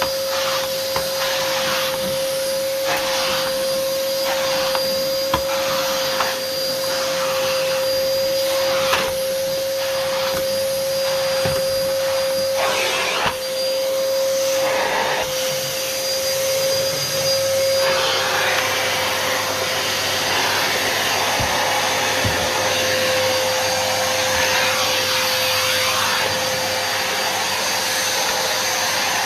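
Numatic NuVac VNP180-1 vacuum cleaner running, a steady motor whine over a rush of air. For the first half the sound pulses about once a second; past the middle the whine weakens and the rush of air grows fuller.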